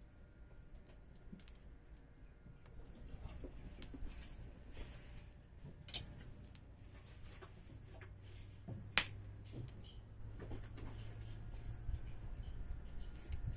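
Wood fire crackling with scattered sharp pops, the loudest about nine seconds in, over a low steady hum.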